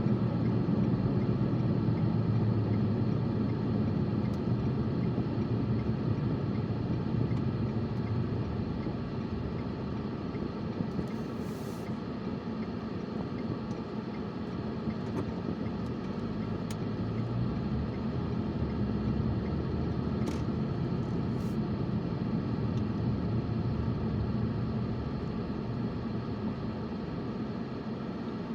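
A car driving along: steady low engine and road rumble.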